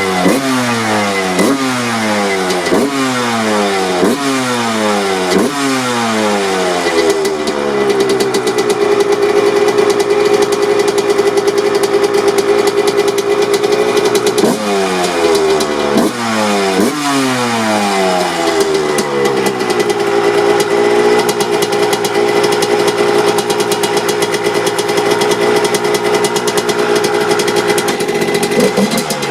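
Suzuki RM 125 two-stroke dirt bike engine on its stock pipe, blipped repeatedly: quick revs about once a second, each rising sharply and falling back. The revs are then held steady, with another short run of blips around the middle before it settles again.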